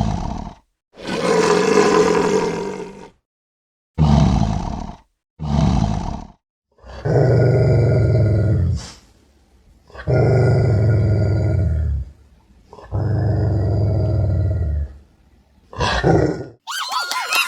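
A series of animal roars and growls, about eight separate calls cut together with silence between them. The last three are longer steady calls of about two seconds each.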